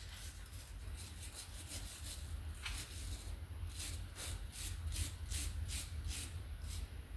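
Quick back-and-forth scrubbing strokes, about three a second in the second half, cleaning rust and corrosion off a tractor's battery cable terminal so it makes a good connection.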